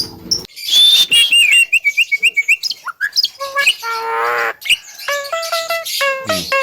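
Javan myna singing: a rapid run of varied chirps and whistles, a harsh buzzy call about four seconds in, then a series of short repeated notes.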